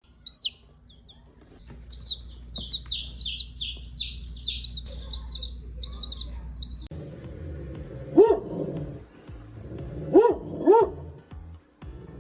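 A bird chirping: a quick run of high, bending notes, about three a second, for some seven seconds. After a sudden cut, a dog barks three short times, the last two close together.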